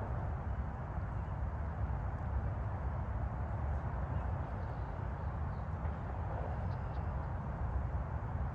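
Steady distant highway traffic noise, a low rumbling wash, with a few faint bird chirps in the second half.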